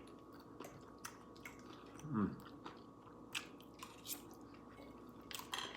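Close-miked eating sounds: faint chewing with scattered crunches and mouth clicks. A brief bit of voice comes about two seconds in.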